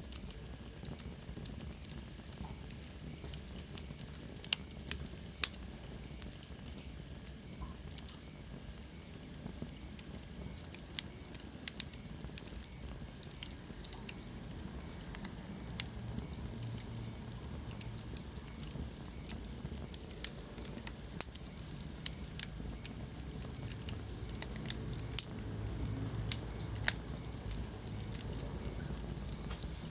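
Wood fire burning in a fireplace: a low steady rumble of flames with irregular sharp crackles and pops. About four seconds in, a thin high whistle slides down in pitch for a few seconds.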